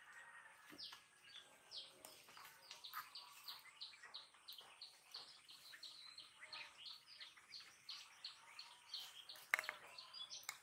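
Faint bird chirps repeated in a quick even series, about three a second, with a couple of sharp clicks near the end.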